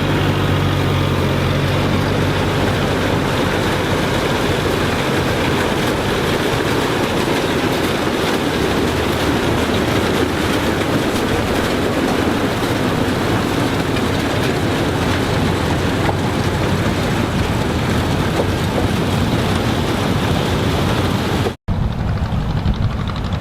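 Corn harvesting machinery running steadily: a loud, dense engine and mechanical din. Near the end the sound cuts out abruptly and resumes as a thinner engine noise.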